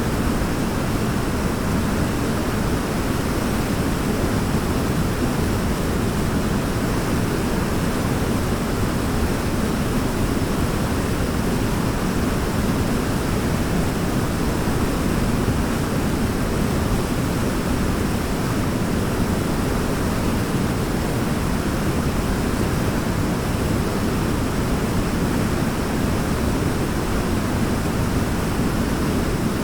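Waterfall rushing steadily: an unbroken, even wash of falling water, heavier in the low end, with no changes or separate events.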